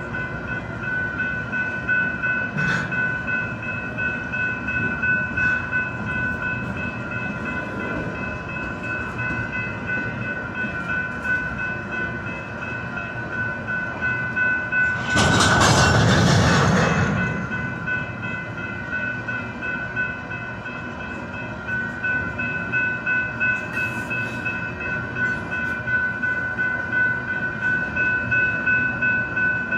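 Canadian Pacific freight train of covered hopper cars rolling past, its wheels and couplings clacking in a rhythm over a steady high-pitched squeal. About halfway, a loud rushing burst lasts about two seconds.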